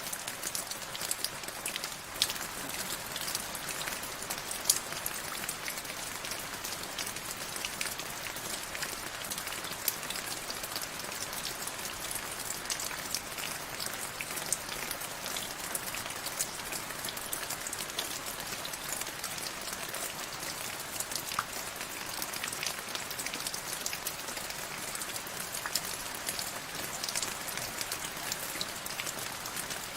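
Steady rain falling, an even hiss with many close individual drops heard as sharp ticks.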